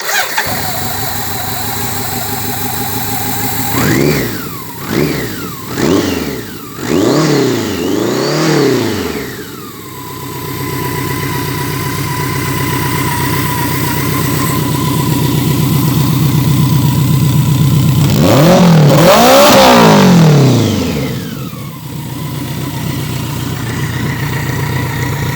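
BMW K100 motorcycle's inline four-cylinder engine idling and being blipped: about five quick revs in a row, then a steady idle with a thin steady whine over it, then one longer, louder rev that falls back to idle.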